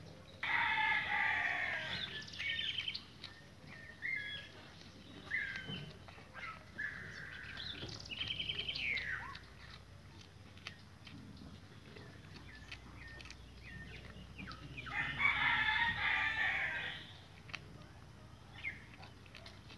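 Domestic fowl calling: two long crowing calls, one near the start and one about fifteen seconds in, with shorter clucks and chirps between them.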